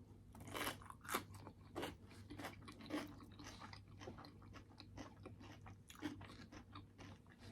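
Close-up eating sounds: soft, irregular crunching and chewing of food, with small clicks every half second or so.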